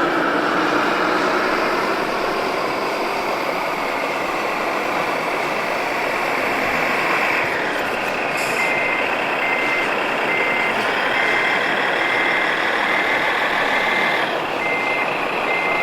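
Radio-controlled model truck running, its motor note slowly rising over the first half, then a reversing beeper sounding short even beeps, about one and a half a second, from about halfway on.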